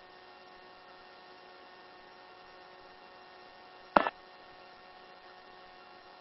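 Faint steady hum with several steady tones, the helicopter's running engine and rotor carried on the headset intercom feed. One short, loud blip comes about four seconds in.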